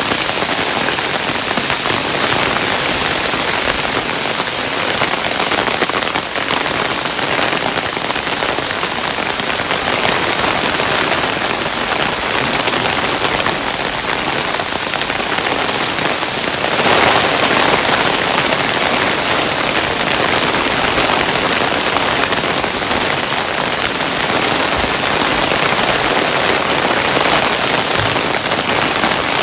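Hailstones falling and pattering densely on a surface, a steady hiss of many small impacts, briefly heavier about two-thirds of the way through.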